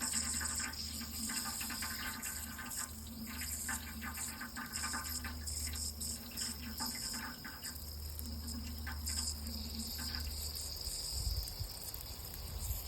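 Water running steadily with a splashing trickle, over a low hum that stops about ten seconds in.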